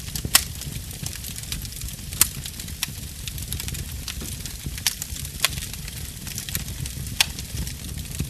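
Wood fire burning: a steady low rumble of flame under a constant run of small crackles, with sharper pops standing out about half a second in, at about two seconds, and twice between five and six seconds and again near seven seconds.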